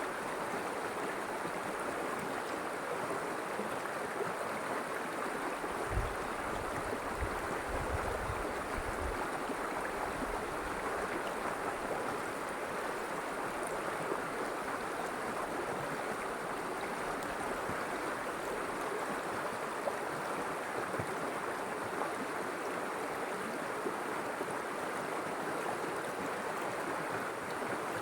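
River water flowing steadily, an even rushing sound. A few low thuds come in about six to nine seconds in.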